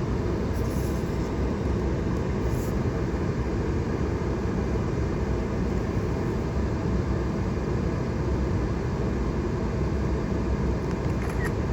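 Steady low rumble of a four-wheel-drive vehicle's engine and cabin, heard from inside the cab, with a couple of faint light ticks early on.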